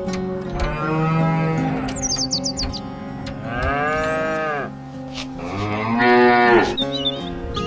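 A cow mooing three times, each call rising and then falling in pitch, over background music, with short high bird chirps in between.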